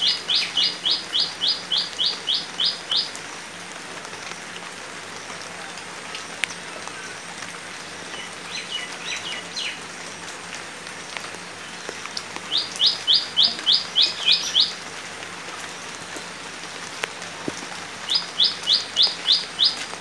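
A bird calling in runs of quick, evenly repeated high notes, about four a second: one run at the start, another about twelve seconds in, and a third near the end, with a few scattered fainter notes between. Under it, the steady patter of light rain on standing water and leaves.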